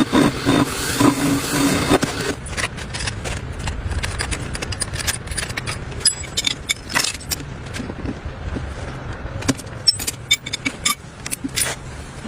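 A motorcycle engine running, its note dropping away about two seconds in, then scattered sharp metallic clinks and scrapes, like tools being handled in a repair workshop.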